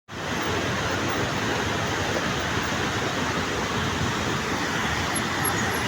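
Swat River's water rushing steadily.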